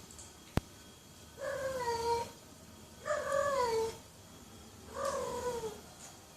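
A domestic cat meowing three times, each call about a second long and falling in pitch toward its end. A sharp click comes shortly before the first meow.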